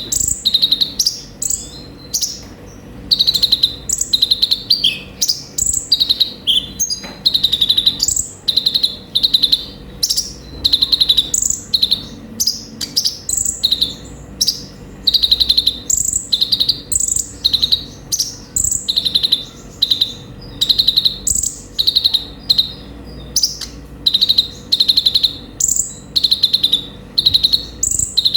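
Kolibri ninja sunbird (konin) singing a fast, full song. It is made of high, rapid trilled phrases, with quick upward sweeps, repeated about once a second without pause.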